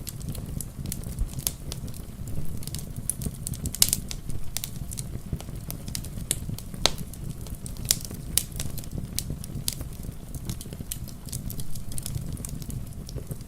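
Wood fire crackling in a fireplace: irregular sharp pops and snaps, several a second, over a steady low rushing noise.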